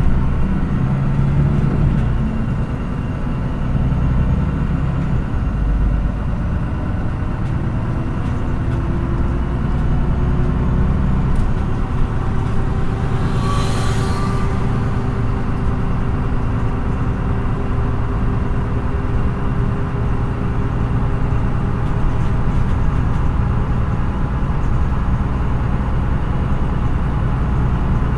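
MAN NÜ 313 bus's diesel engine running under way, heard from inside the passenger cabin, its pitch slowly rising as the bus pulls. A short hiss comes about halfway through.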